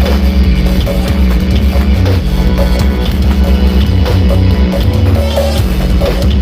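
Loud dance music with a fast drum beat and heavy, booming bass, played through a large carnival sound-system rig (Indonesian 'sound horeg').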